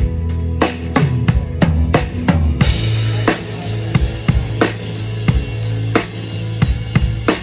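Band playing during a sound check: a drum kit keeps a steady beat of kick and snare, about three strikes a second, over held low bass notes, with cymbals joining about two and a half seconds in.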